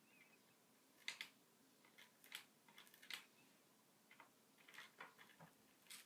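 Faint, irregular small clicks and taps of a budgie moving about and pecking at things on a table, about a dozen in a few seconds.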